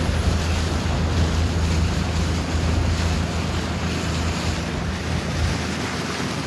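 Wind buffeting the microphone over the rush of water around a boat on open water, with a low rumble that eases off about five and a half seconds in.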